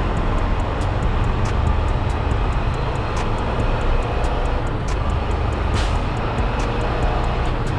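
Semi-truck's diesel engine and road noise heard from inside the cab while driving: a steady low drone with faint scattered clicks.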